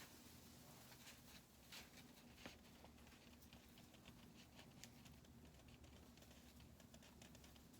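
Near silence, with faint, irregular small clicks and ticks scattered throughout, more of them in the second half.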